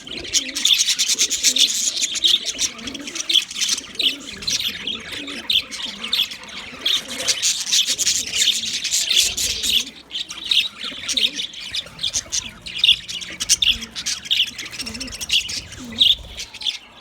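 Several budgerigars chirping and chattering continuously in rapid, overlapping calls. The chatter is busiest in the first ten seconds or so and thins a little after.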